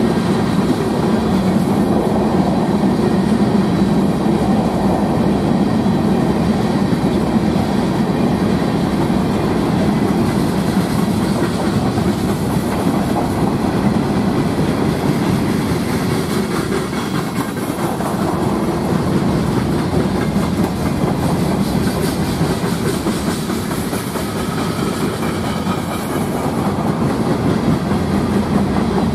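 CSX freight train's gondola and hopper cars rolling steadily past, their steel wheels running on the rails in a continuous rumble.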